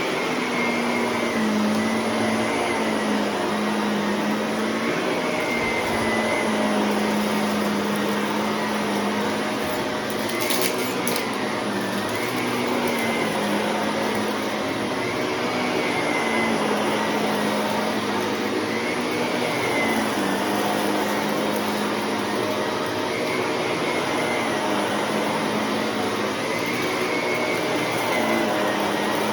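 Shark vacuum cleaner running steadily, its motor pitch dipping slightly and recovering every three seconds or so as it works the floor. A couple of brief clicks come about ten seconds in.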